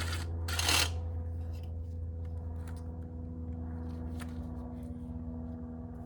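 Small metal parts being handled and worked loose during motorcycle disassembly: a brief scrape just under a second in, then scattered light clicks, over a steady low hum.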